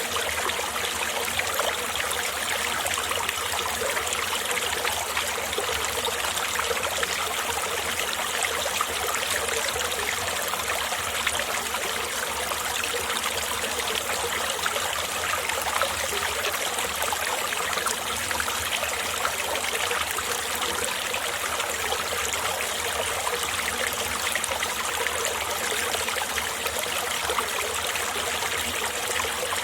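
Winter mountain-valley stream running steadily: a continuous rush of flowing water with fine trickling and splashing throughout.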